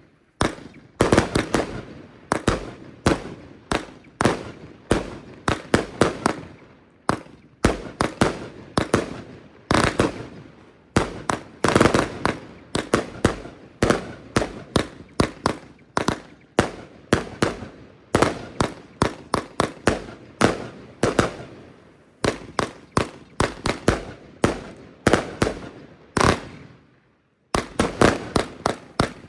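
Röder Jubelbox compound fireworks battery firing shot after shot: sharp bangs in quick bunches, several a second, with one brief pause about 27 seconds in.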